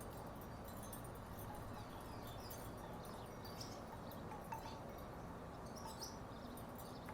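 Wooden tiki wind chimes knocking softly and irregularly in the breeze, with scattered short hollow clacks over a steady low background noise.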